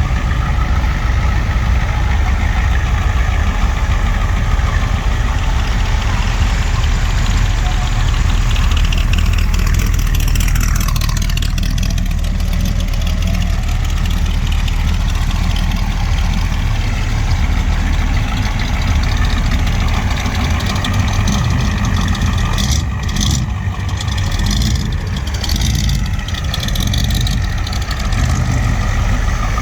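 A vehicle engine idling steadily with a deep, low drone. About ten seconds in, a whine sweeps down in pitch over a couple of seconds.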